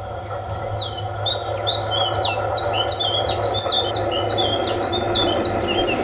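A small songbird singing a fast, jumbled run of short high chirps, starting about a second in and stopping near the end. Underneath is a steady low hum that slowly grows louder.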